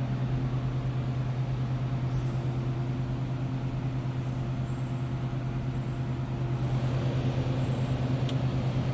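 Semi truck's diesel engine idling with a steady, even low hum.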